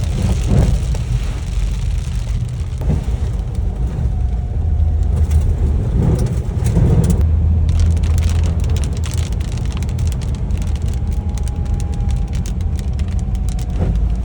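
2008 Hummer H3 Alpha driving in the rain, its V8 and tyres giving a steady low rumble under the hiss of rain and wet road. A few surges of splashing water come as it drives through puddles.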